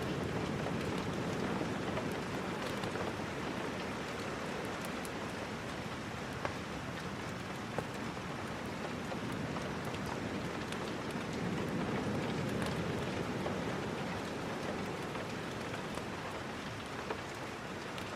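Rain falling steadily, with a low wash that slowly swells and eases and a few scattered sharp ticks.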